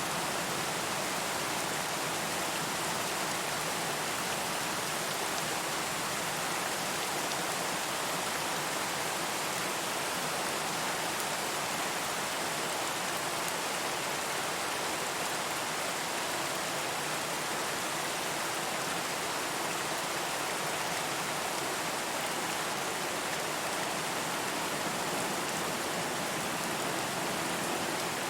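Steady rain falling, an even hiss of drops with no thunder or distinct splashes.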